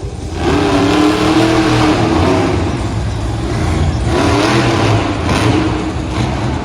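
Monster truck engine revving hard in an arena, its pitch rising and falling with the throttle.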